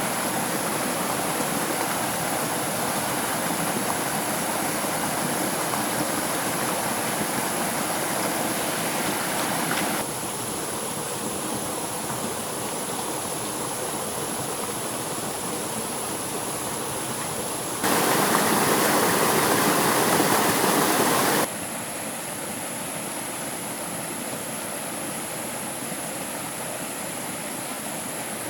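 Steady rushing of flowing stream water, with no speech. It changes abruptly in loudness at a few edits and is loudest for a few seconds in the second half.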